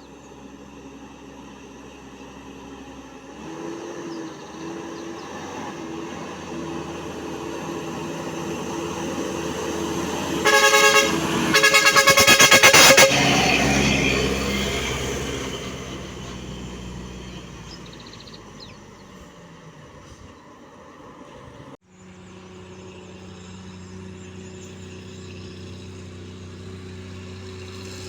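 A truck drawing near with its engine rising, sounding its horn twice, a short blast then a longer one, then passing and fading away. After a sudden cut, another vehicle is heard approaching.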